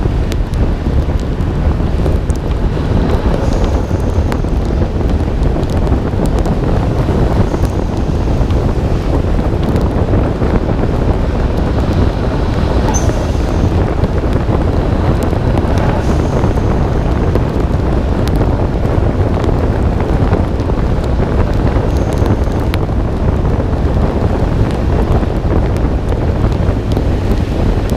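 Steady wind roar on a hood-mounted camera's microphone on a moving Nissan Skyline R32 GT-R, with the car's low rumble underneath.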